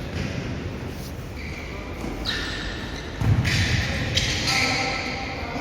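Indoor futsal play in an echoing hall: a hard ball strike thuds about three seconds in, among short high squeaks and players' calls.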